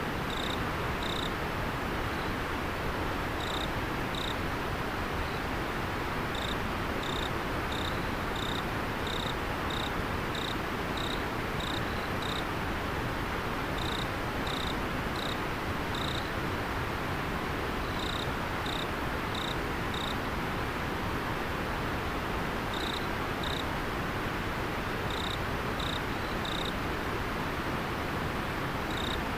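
Steady rush of a flowing river, with an insect chirping over it in short, high notes about twice a second, coming in runs broken by pauses of a second or more.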